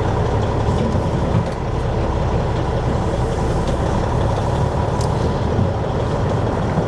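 Diesel dump truck engine running steadily, a constant low rumble heard from inside the cab.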